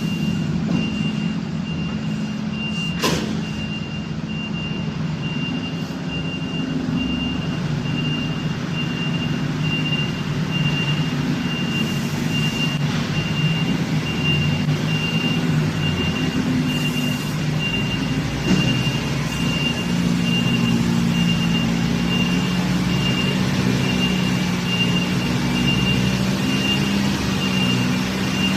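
Truck engine running steadily, with a thin high tone pulsing rapidly and evenly over it and one sharp click about three seconds in.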